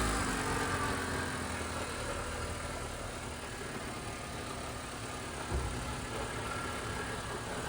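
2017 Honda Civic engine just after a start on its replaced starter motor, its speed falling from the start-up flare and settling into a steady idle. It caught at once, a sign that the new starter is working properly.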